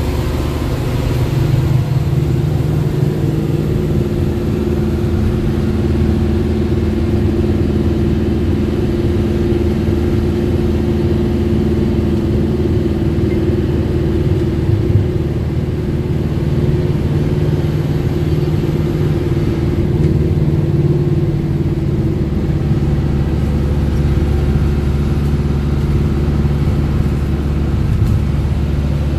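Motor vehicle driving: a steady engine drone with road noise, the low hum shifting slightly about two-thirds of the way through.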